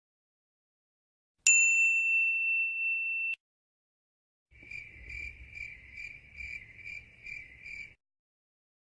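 A single bright ding sound effect that rings for about two seconds and then cuts off abruptly. After a short gap comes a cricket-chirp sound effect: a steady run of about eight high chirps in three and a half seconds.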